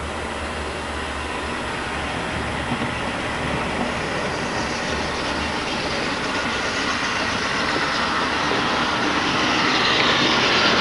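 HO scale model diesel locomotives running on layout track, a steady rolling and motor noise that grows louder as the train nears.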